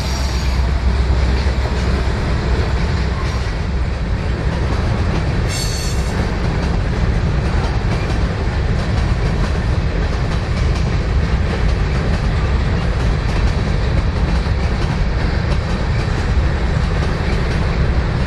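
Freight train rolling past, steel wheels clicking and rumbling over the rail joints, with a brief high-pitched screech about five seconds in.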